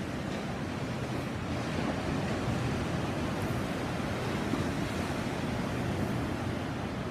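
Caribbean sea surf washing steadily onto the shore, a continuous rush of breaking water that swells slightly in the middle.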